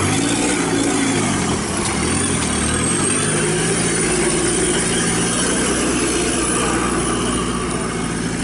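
A motor vehicle's engine running under way. Its pitch drops and rises over the first few seconds, then holds steady, with a thin high whine above it.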